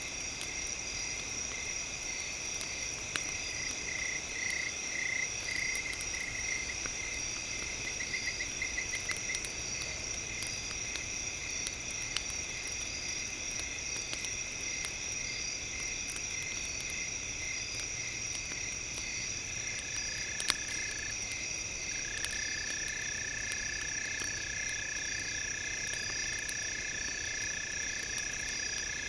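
Campfire crackling, scattered sharp pops, under a layer of steady high-pitched synthesized tones. A pulsing tone comes and goes in the first third, and a lower held tone enters about two-thirds of the way in.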